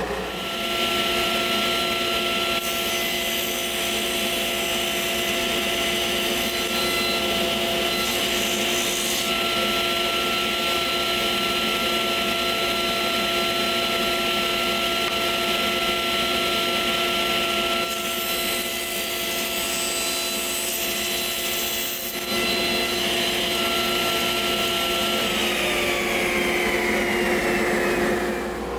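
Drum sander running with a steady motor whine and the hiss of abrasive sanding a wood board fed through it. Near the end the motor's pitch slides down as it slows.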